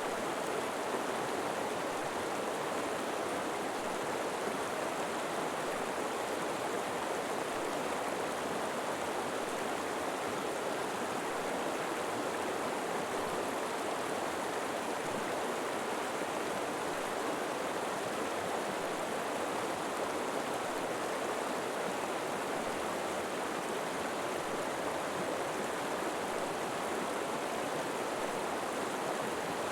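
River water flowing steadily over rocks, an even, unbroken rushing.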